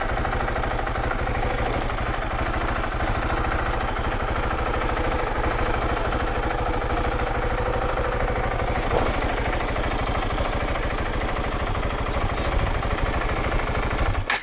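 KTM 690 Enduro R's single-cylinder engine running steadily at low revs, an even low pulse from its firing strokes. The engine sound cuts off suddenly near the end.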